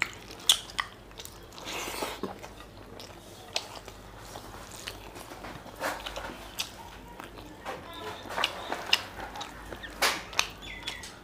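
Close-up wet chewing and lip smacks of a man eating rice and mutton curry by hand, with irregular sharp clicks, some of them from the hand working the rice on the plate.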